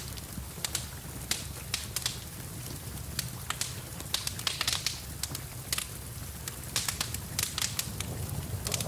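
Wood fire in a fireplace crackling, with frequent irregular sharp pops and snaps over a steady low rumble. Rain falls steadily in the background.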